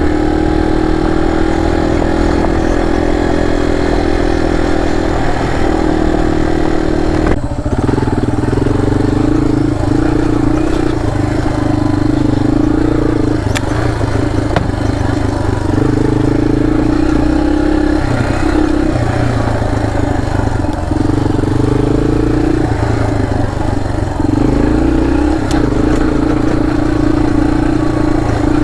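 Dirt bike engine running hard, its pitch rising and falling every second or two as the throttle is worked; the sound changes abruptly about seven seconds in.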